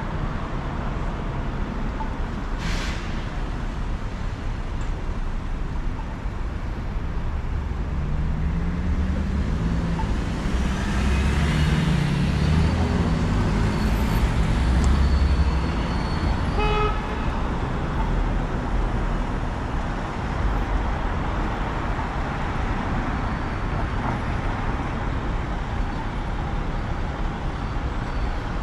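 City street traffic: cars passing steadily, with one vehicle passing loudest around the middle. A short car horn toot sounds just after it.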